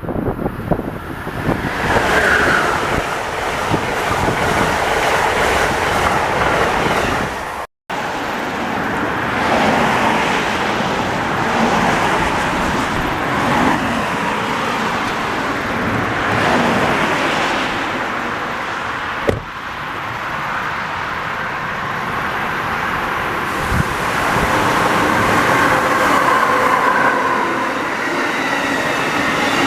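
Train on the Strasburg Rail Road rolling past: a steady noise of wheels on the rails, with faint squealing tones near the end. The sound cuts out for an instant about eight seconds in.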